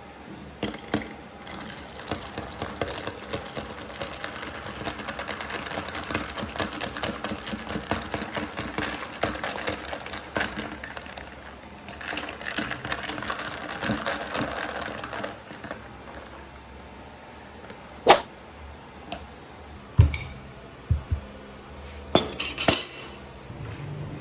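Rapid scraping and clicking of a bamboo matcha whisk beating tea in a bowl for about fifteen seconds. A few separate sharp knocks of tableware being handled follow near the end.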